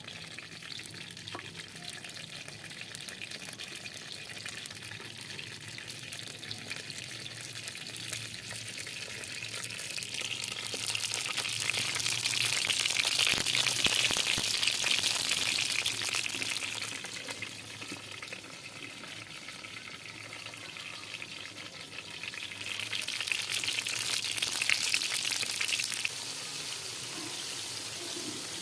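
Food sizzling as it fries in hot oil in a cooking pot. The sizzle swells louder for several seconds around the middle and again near the end.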